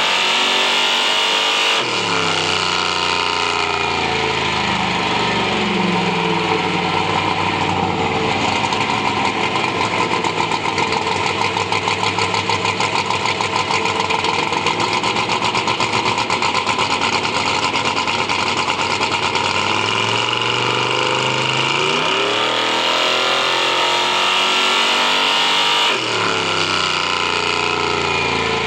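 A Chevy II's built engine held high, then falling back to a steady pulsing idle. Near the end it revs up again and drops off suddenly, the pitch falling back toward idle.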